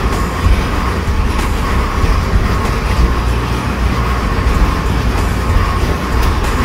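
Fuel-injected 440 cubic inch Ford Windsor V8 running steadily at idle on the dyno, a loud uneven low rumble with no revving.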